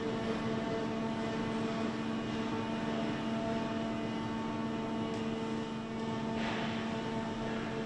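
Steady factory machinery hum, several constant tones over a bed of noise. A short hiss of air comes about six and a half seconds in.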